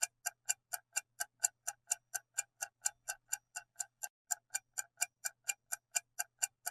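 Clock-ticking sound effect, an even tick about four times a second, over a faint low hum.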